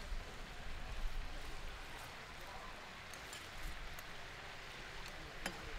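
Steady sizzling of food frying in oil on a hot griddle, with a few light clicks, about two seconds in, around three to four seconds, and once more near the end.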